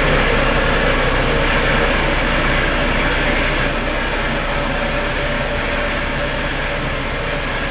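Spaceship engine sound effect: a steady, rumbling engine-like drone with a low hum, fading slightly toward the end.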